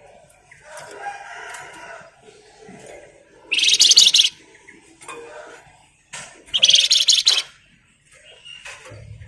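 Flamboyan songbird singing its rapid, rattling 'ngebren' trill: two loud bursts of high, dense trilling about a second long each, around four and seven seconds in, with softer chirps between.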